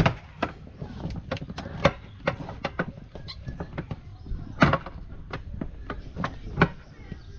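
Irregular knocks and clacks of inflatable-boat floor panels being handled and slotted into place in the hull, with a loud knock at the start and another about two-thirds of the way through.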